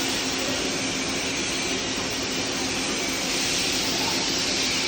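Welding arc on stainless steel burning with a steady, even hiss, with a constant low hum underneath.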